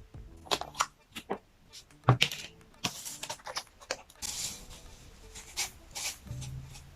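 Close-miked eating and food-handling sounds: crisp crackles, clicks and rustles from biting into and handling crispy desserts or their packaging.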